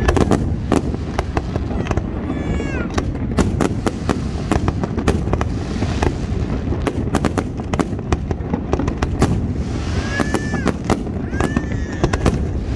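Fireworks display: a rapid, unbroken run of bangs and crackles over a steady low rumble, with a few short whistling tones about two seconds in and again about ten seconds in.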